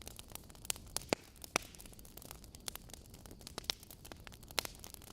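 Wood campfire crackling, with irregular sharp pops over a low steady hiss, a few of the pops louder than the rest.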